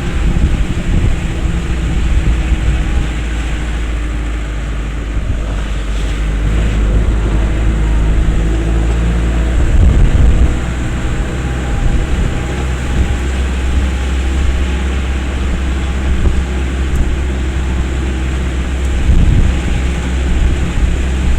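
A vehicle on the move: a steady low engine and road rumble, with a few louder jolts about ten seconds in and again near the end.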